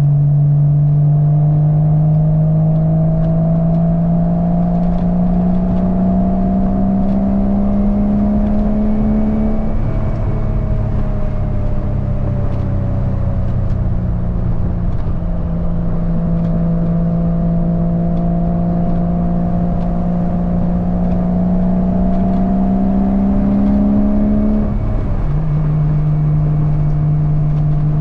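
1997 Porsche 986 Boxster's 2.5-litre flat-six running through an aftermarket cat-back exhaust under way. The engine note climbs slowly, drops sharply about ten seconds in at a gear change, climbs again, and drops once more near the end.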